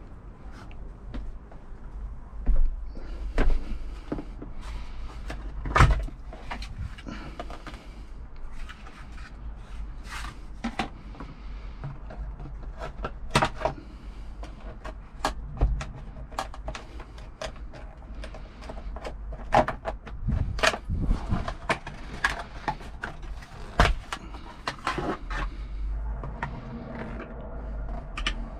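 Irregular knocks, clicks and clatter, as of hard objects being handled and set down, over a low steady rumble.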